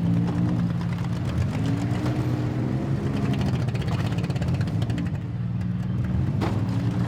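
Demolition derby car engines running and revving, their pitch rising and falling, with one sharp bang about six seconds in.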